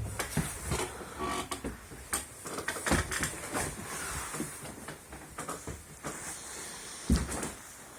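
Footsteps climbing a wooden dacha staircase: irregular knocks and thumps, the heaviest about three and seven seconds in, over a faint steady hiss.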